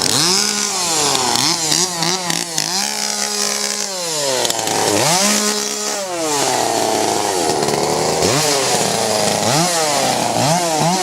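Two-stroke chainsaw engine being revved over and over: its pitch climbs and falls repeatedly, with quick short blips between a few longer revs held high.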